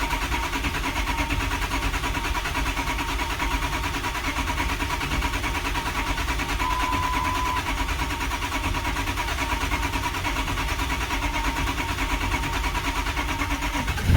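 Starter motor cranking a 2005 Ford 6.0 Powerstroke V8 turbodiesel in a long, steady, even rhythm without it firing, on a battery that is getting low. The long crank is probably due to air still in the high-pressure oil system after the injectors and oil rails were removed.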